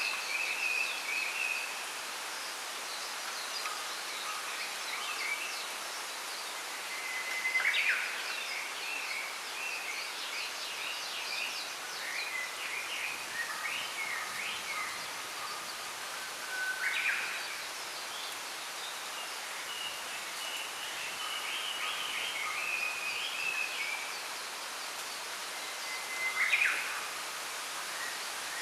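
Small birds singing and chirping over a steady rustle of wind in a bamboo grove. Three times, about nine seconds apart, one bird gives a louder call: a held note that breaks into a quick sweeping flourish.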